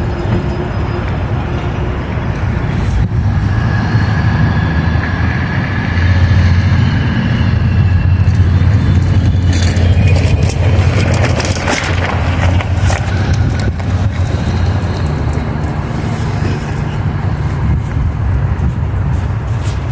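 Train passing with a steady low engine rumble that swells in the middle, with scattered clicks and rattles.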